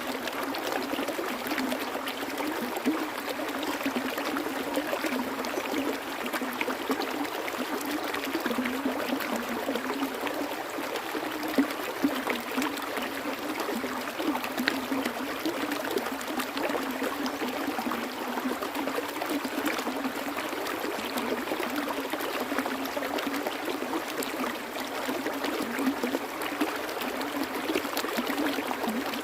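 A stream of water flowing and splashing steadily, with small trickling and bubbling splashes throughout.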